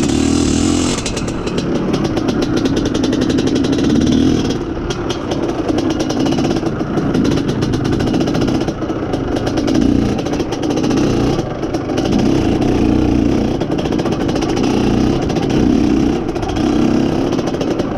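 IZh Planeta Sport's single-cylinder two-stroke engine pulling the motorcycle along, its note swelling and easing every couple of seconds as the throttle opens and closes, with gravel crackling under the tyres. The engine is running on a freshly fitted 150 main jet meant to cure a lean mixture.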